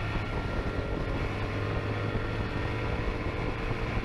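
Vehicle engine and road noise picked up by an onboard camera during a high-speed police chase: a steady, even drone.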